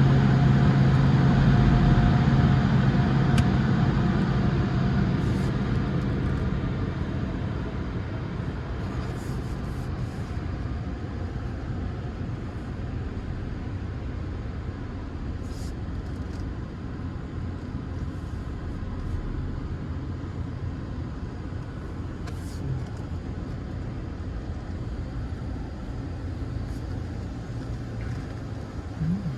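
Sonny's car wash tunnel machinery, heard from inside the car, running loud and steady with a low hum, fading over the first several seconds as the car moves out of it. Then the car's own engine and road noise carry on steadily.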